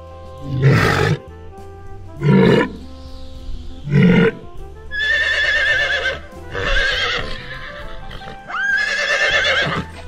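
Three short, loud low calls from a walrus in the first half, then a horse whinnying several times in high, wavering calls, over background music.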